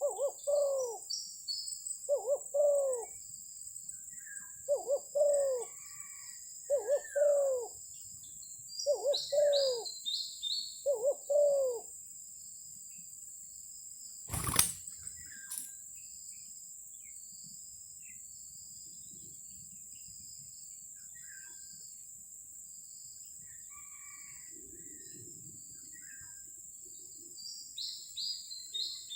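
Spotted doves giving repeated two-note coos for about the first twelve seconds, then a single sharp shot about halfway through, followed a second later by a fainter click. A steady high insect tone and small birds chirping continue in the background.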